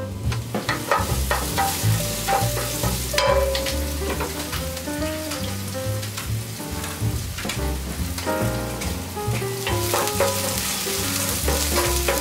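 Chopped green onion and dried red chili sizzling in hot oil in a nonstick frying pan, stirred with a wooden spatula.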